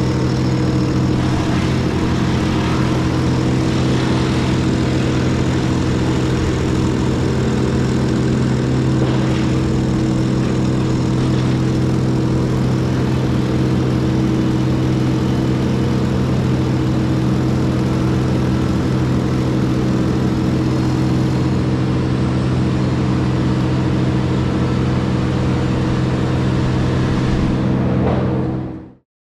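Heavy equipment engine running steadily at a constant speed, then cutting out abruptly about a second before the end.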